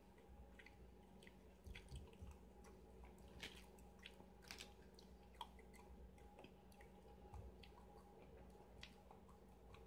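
Near silence with faint, scattered wet clicks and smacks of a person chewing a mouthful of cream-filled snack cake.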